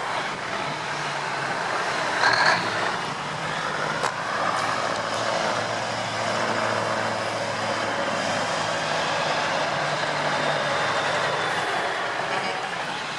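Vintage semi truck's diesel engine running steadily along the road, with road noise, and a brief louder burst about two seconds in.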